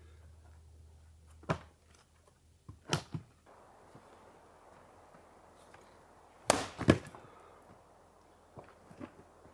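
Firewood being chopped: a few sharp wooden strikes, with two close together about two-thirds of the way through and lighter knocks near the end.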